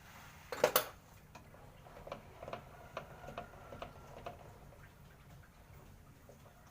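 Two sharp knocks close together a little over half a second in, followed by scattered light ticks and clinks.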